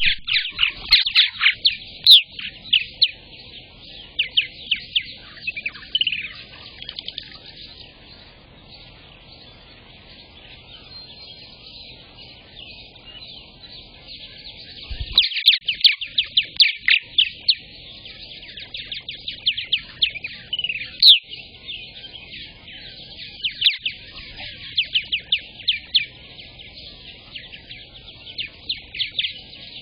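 Purple martins chattering: quick runs of high chirps and gurgling trills in bouts, with a quieter spell of several seconds in the middle before the chatter picks up again.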